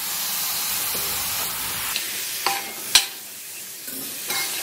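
Raw chicken pieces sizzling in hot coconut oil and spice masala in a wide uruli pot while a steel spatula stirs them. The sizzle eases about two seconds in, and the spatula knocks against the pot a few times; the sharpest clank comes about three seconds in.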